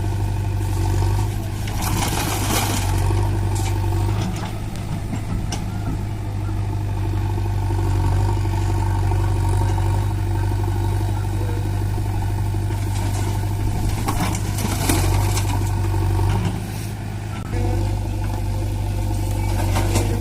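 Heavy diesel engine running steadily with a deep rumble, briefly dropping in level about three-quarters of the way through and then picking up again.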